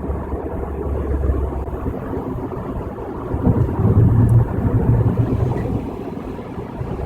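Road and tyre noise heard inside a moving car's cabin on the highway: a steady low rumble, with a louder low drone from about three and a half to five seconds in.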